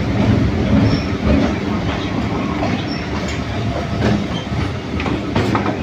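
Kolkata suburban local train running at speed, heard from on board: a steady rumble with wheels clattering over the rails and a few brief high squeaks.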